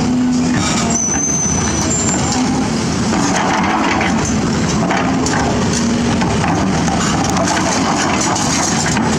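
Excavator diesel engine running steadily under load, with repeated knocks and scraping of the bucket working on rock and debris. A short high whistle sounds about a second in.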